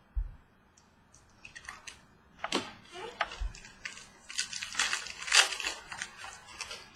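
A trading-card pack wrapper being torn open and crinkled, with sharp crackling that grows dense in the second half. There is a dull thump just after the start.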